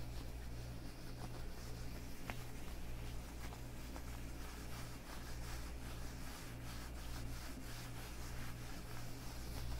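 Leather gloves rubbing and scuffing against each other on the hands in a series of soft strokes, with a couple of small clicks.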